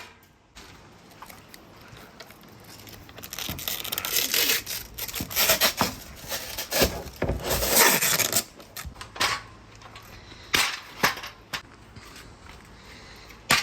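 A marble rolling and clattering along a marble-run track: a rattling roll for several seconds from about three seconds in, then a few separate sharp clicks as it knocks against the track.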